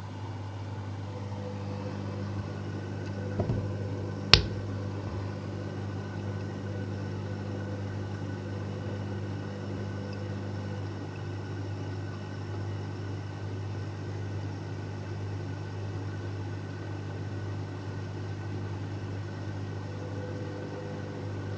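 Electrolux washing machine running with a steady motor hum, and a sharp click about four seconds in.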